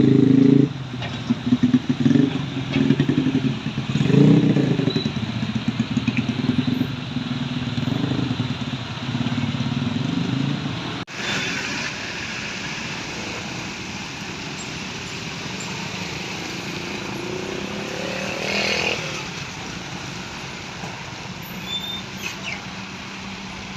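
A heavy truck's engine running close by, loud and uneven, for about the first eleven seconds. Then a sudden cut to a steady hiss of road noise, with another vehicle briefly swelling past near the end.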